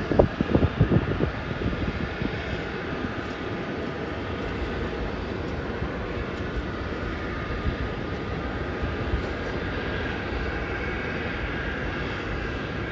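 Airliner engines running, a steady drone with a faint steady whine through it; a few uneven low thumps in the first second or so.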